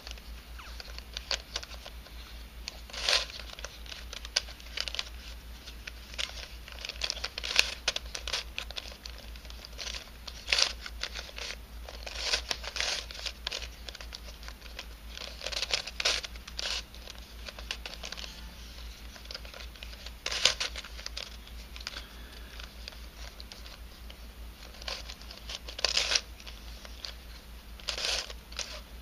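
A 3D-printed nylon helicopter cube puzzle being twisted by hand: irregular clicks and scraping rattles as its pieces turn and slide, with a few louder snaps, over a faint low hum.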